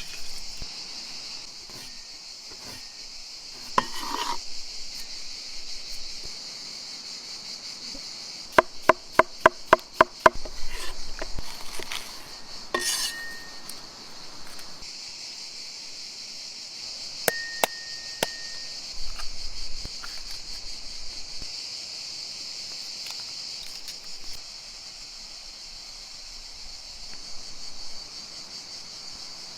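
Steady high-pitched chorus of insects throughout. About a third of the way in, a quick run of about eight sharp taps, followed by a few scattered clinks and knocks.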